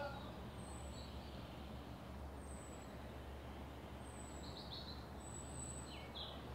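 Faint outdoor ambience: small birds giving short, very high chirps every second or so, with a few lower chirps about four to six seconds in, over a low steady background rumble.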